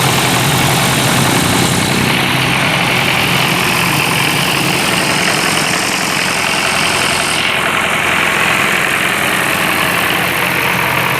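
Type 495 four-cylinder diesel engine running steadily at a constant speed.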